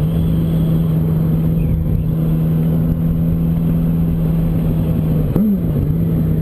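Yamaha R1 inline-four engine holding a steady note under wind rush as the bike rides on. About five and a half seconds in the pitch briefly rises and drops back.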